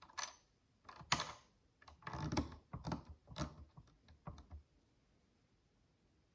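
Tiny plastic micro building bricks clicking and rattling as they are handled, a run of irregular clicks that stops about four and a half seconds in.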